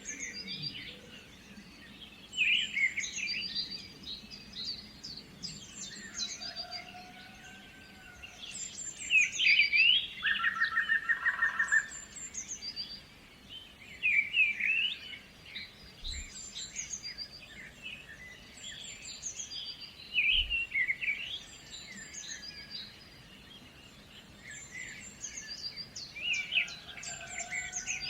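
Songbirds chirping and singing, with quick trilled phrases recurring every few seconds over a soft background hiss. A fuller, clearer call comes in once near the middle.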